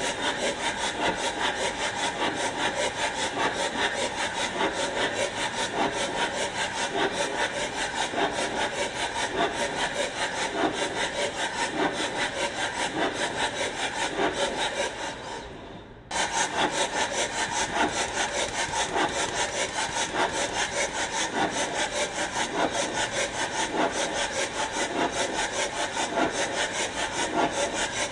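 Steady, rapid back-and-forth scraping strokes of a hand tool, like sawing or rasping. Around the middle they fade away and break off, then start again at once at the same pace.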